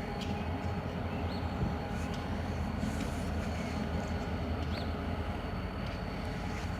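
Diesel freight locomotive running steadily, its engine giving a low, even hum, with a few faint ticks over it.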